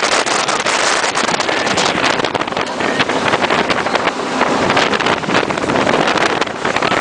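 Jet boat running at speed, its engine and water jet mixed with heavy wind buffeting on the phone's microphone. The sound is loud, an even rush with constant fluttering.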